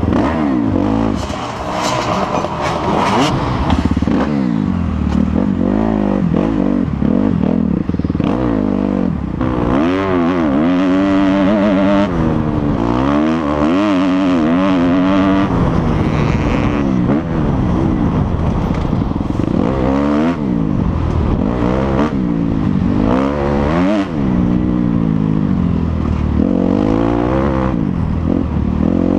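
Dirt bike engine revving hard and easing off over and over, its pitch rising and falling as the rider works the throttle through the woods course, with clattering and knocks from the bike over rough ground.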